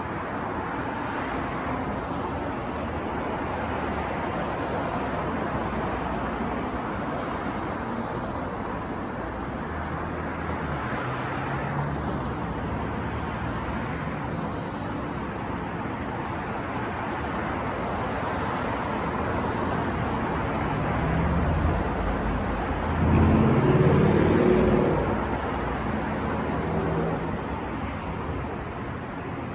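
City street traffic noise: a steady wash of passing cars. One vehicle's engine grows louder for about two seconds about three quarters of the way in as it passes close.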